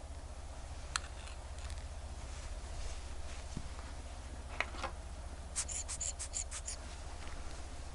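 Small sharp clicks and light scraping of metal tools on tiny wristwatch parts during a watch repair, with a quick run of about eight ticks a little past halfway. A steady low hum lies underneath.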